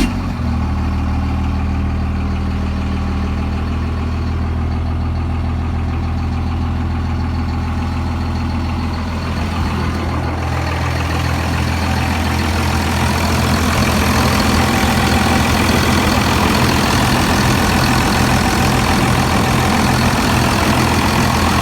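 Just-started 1998 Dodge Ram 2500's 24-valve Cummins turbo-diesel inline-six idling steadily through an 8-inch dump axle exhaust. About ten seconds in, the idle grows a little louder and brighter.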